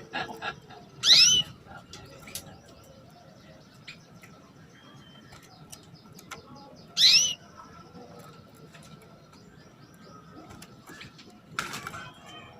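Female canary calling with short high 'cuit-cuit' chirps: a quick cluster of sweeping notes about a second in and again near seven seconds, with faint ticks in between. A short rustling burst comes near the end.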